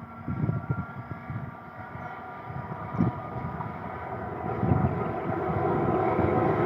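Approaching train hauled by a WAP-4 electric locomotive, a rumble with faint steady tones growing steadily louder. Wind buffets the microphone in low thumps.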